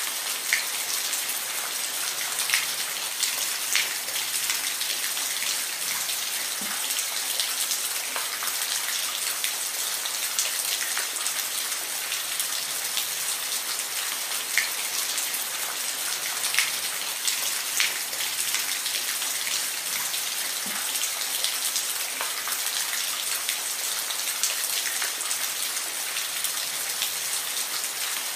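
Steady rain falling as an even hiss, with individual drops striking a surface in scattered sharp taps.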